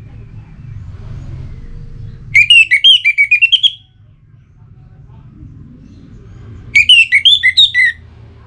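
Orange-headed thrush (anis merah) singing in full song: two phrases of rapid, varied rising and falling notes, each about a second long, the first about two seconds in and the second near the end. This kind of song is used to provoke a rival into answering. A low, faint rumble runs beneath.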